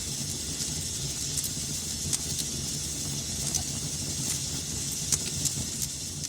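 Fire burning in a fireplace: a steady hiss over a low rumble, broken by irregular sharp crackles and pops.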